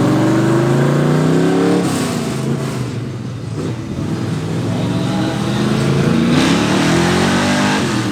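Muscle car engine accelerating hard, its pitch climbing, then falling away about two seconds in. A second long climb in revs starts about four seconds in and cuts off near the end.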